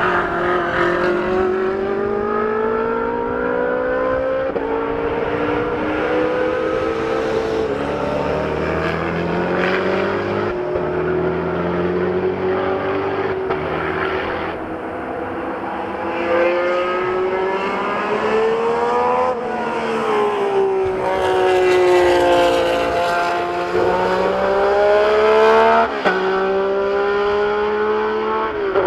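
High-performance supercar engines revving and accelerating, the pitch climbing and dropping again and again, with several abrupt jumps from one engine sound to another.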